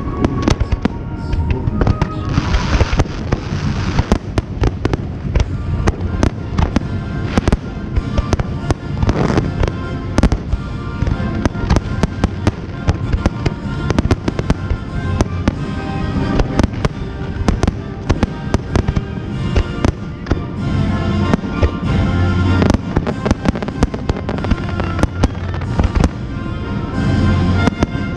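A fireworks display firing to music: rapid shell bursts and crackling reports go off many times a second throughout, over a music soundtrack. Hissing shell and fountain effects swell about two seconds in and again near nine seconds.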